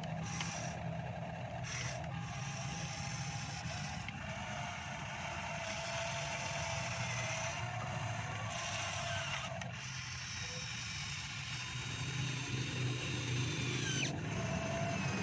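Remote-control long-reach Sumitomo excavator model's hydraulic pump running with a steady hum, with higher whining tones that shift in pitch and a quick falling whine about fourteen seconds in.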